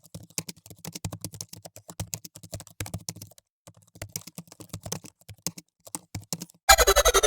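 Rapid, irregular clicks and taps, pausing briefly twice, then music starting loudly near the end.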